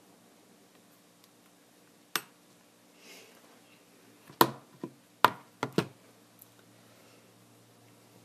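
Sharp clicks and taps of small hard objects being handled and set down during a tablet screen repair: one about two seconds in, then a quick cluster of five between about four and six seconds.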